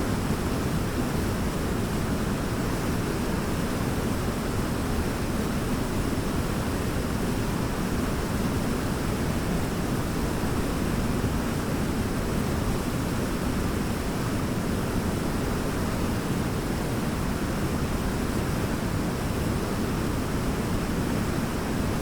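Large waterfall: a steady, heavy rush of falling water, deep and even, with no breaks or changes.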